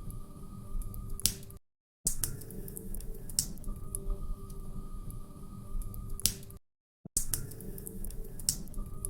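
Wood fire crackling in a fireplace: scattered sharp pops and snaps over a low steady rumble. The sound cuts out completely twice for about half a second.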